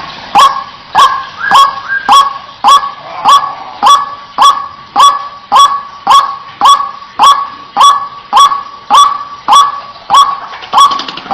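White-breasted waterhen giving its repeated 'kwak' call: short, sharp-starting notes with a steady tone, a little under two a second, as used in a lure recording to attract the birds.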